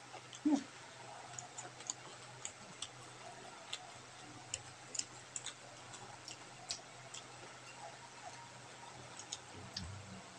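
Close-miked eating by hand: irregular wet mouth clicks and lip smacks from chewing rice and fried fish with sambal, over a low steady hum. A short murmur of the voice comes about half a second in.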